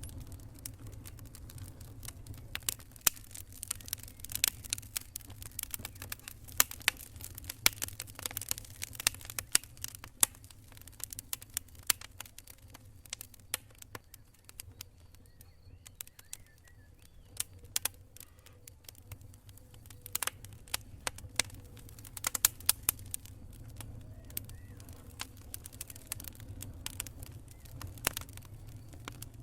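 Wood campfire crackling: irregular sharp pops and snaps, thinning out for a few seconds midway, over a steady low rumble.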